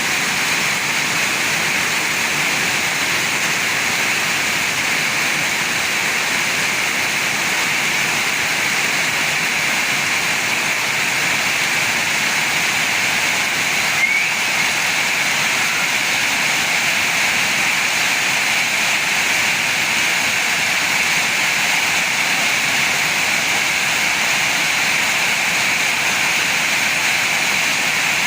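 Heavy rain pouring steadily in strong wind, an even, unbroken hiss.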